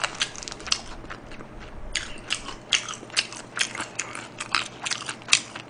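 Close-miked chewing of soy-glazed fried chicken: irregular wet crunches and clicks, two or three a second, stronger from about two seconds in.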